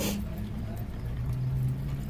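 Steady low hum of a parked minivan's idling engine, heard inside the cabin, with a short click at the very start.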